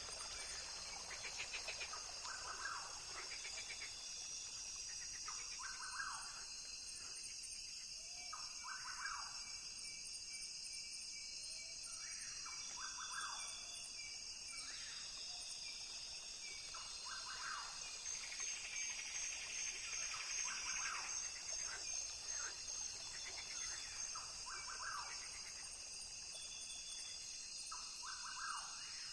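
Rainforest ambience: a steady, high-pitched insect drone of several held tones, with short animal calls repeating every couple of seconds beneath it.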